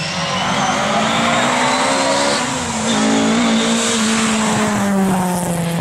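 Rally car driving past at speed, its engine note climbing and then dropping away toward the end.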